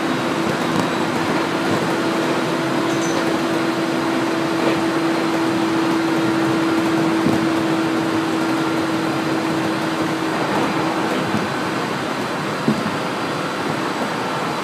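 Running noise inside a 701 series electric train car at speed: a steady rush of wheels on rail, with a steady hum that fades out about ten seconds in and a single short knock near the end.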